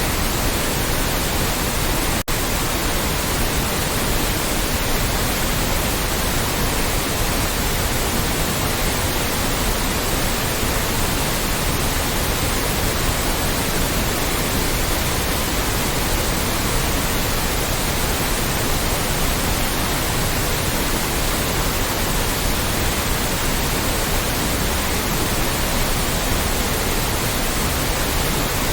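Loud, steady white noise, an even hiss across the whole range with no change, broken by a split-second dip in level about two seconds in.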